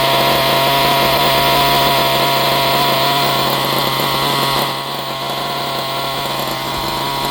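Kyosho nitro RC buggy's glow engine running at a steady high pitch, a little quieter and duller from about halfway through.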